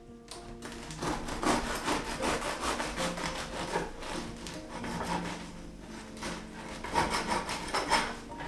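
Repeated rasping, scraping strokes, like something being rubbed or grated against a rough surface, over faint held tones of background music.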